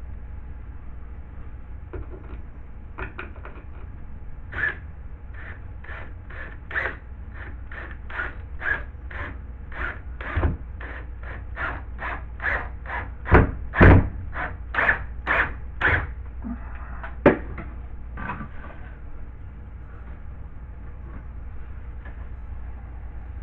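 Hand tool scraping back and forth in quick strokes, about three a second, with a few heavier knocks near the middle, over a steady low hum.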